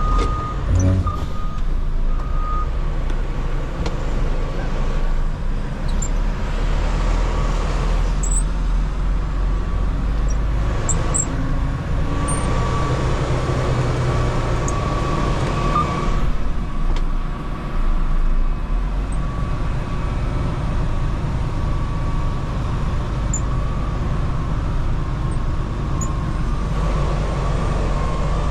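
Semi-truck diesel engine running steadily as the tractor-trailer pulls up, with a reversing alarm beeping on and off.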